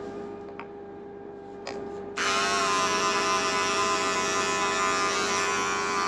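Electric pet clippers switched on about two seconds in, buzzing steadily while trimming the fur around a kitten's rear, after a couple of faint clicks.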